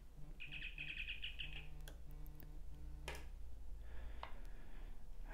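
A bird chirping in a quick, even trill for about a second, starting about half a second in. A few light clicks follow, from hands handling the NanoVNA and its cable.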